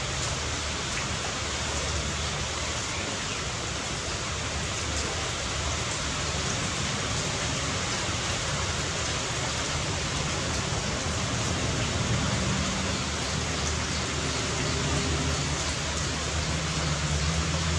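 Steady rain, an even hiss with no single drops standing out. A low rumble builds underneath in the last few seconds.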